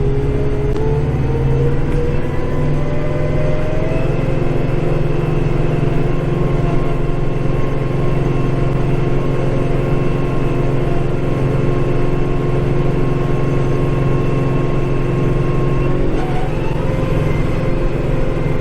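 Kubota diesel tractor engine running steadily under load, heard from inside the cab, with a whine that rises in pitch over the first few seconds and shifts again near the end.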